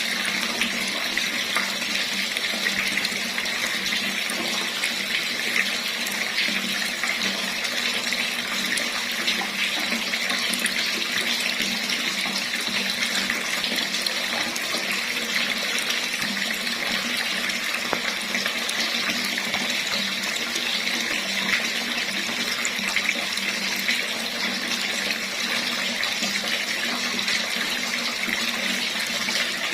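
Water running steadily from a tap, an even, unbroken splashing hiss.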